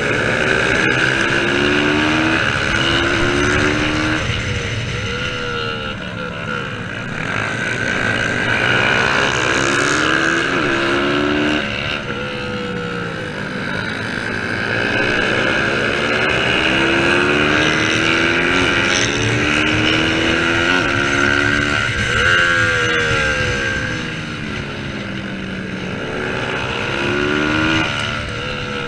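Racing motorcycle engine revving hard, its pitch climbing through each gear and dropping at every gear change, over and over.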